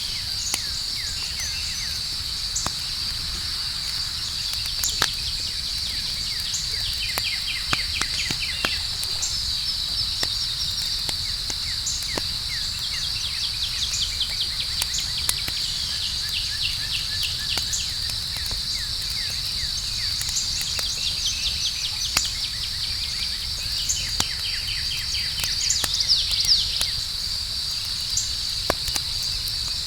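A campfire crackling, with scattered sharp pops, over a steady high-pitched chorus of night insects such as crickets, with bursts of rapid trilling chirps.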